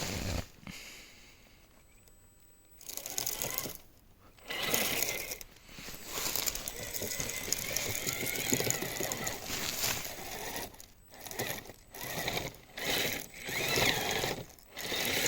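Kyosho Blizzard RC tracked snowcat's electric motor and track drive whirring in stop-start bursts with short pauses, as the tracks fight a tree caught in them.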